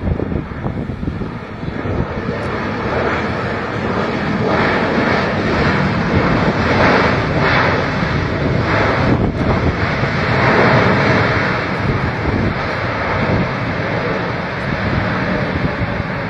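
Jet airliner passing by, its engines making a broad, steady roar that builds over the first few seconds, is loudest around the middle and eases off toward the end.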